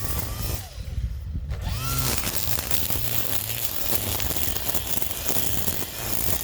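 String trimmer (weed whacker) running steadily, with a brief dip about a second in.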